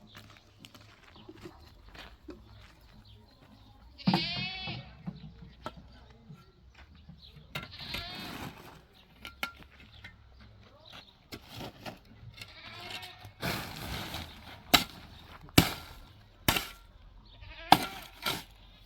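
Small livestock bleating: one loud call about four seconds in and another about eight seconds in. Several sharp knocks sound near the end.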